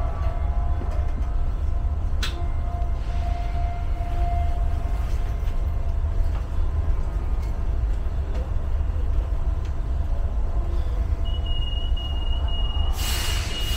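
DART electric multiple unit standing at a platform, its onboard equipment giving a steady low hum and a faint whine, with a single click about two seconds in. Near the end a high-pitched, slightly broken warning tone starts, and about two seconds later a rush of hiss follows, typical of the door-closing warning and the doors' air before departure.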